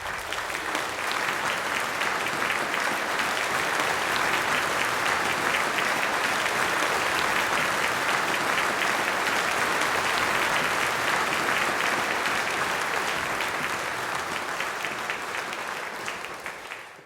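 Audience applauding, with many hands clapping steadily; it eases a little near the end and then cuts off abruptly.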